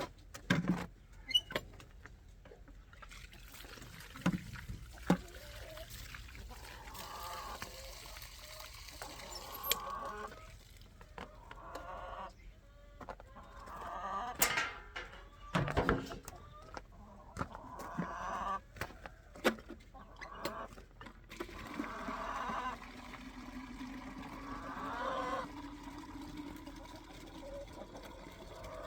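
Chickens clucking in the coop, with scattered sharp knocks and clatter.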